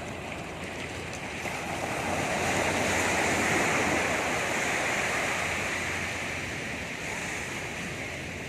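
Sea waves breaking on a beach: a wash of surf swells up about two seconds in, peaks, then slowly recedes.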